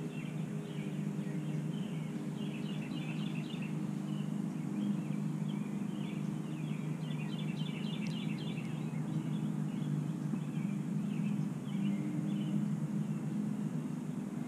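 Small birds chirping in quick twittering bursts, heard a few times over a steady low hum.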